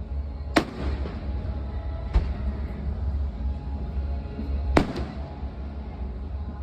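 Fireworks shells bursting at a display: three sharp bangs, about half a second in, about two seconds in (fainter), and near five seconds, each trailing off briefly, over a steady low rumble.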